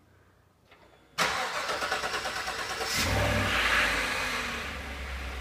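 2015 Chevrolet Silverado 1500's 5.3-litre V8 being remote-started: about a second in the starter cranks, the engine catches and flares up in revs, then settles into a steady idle.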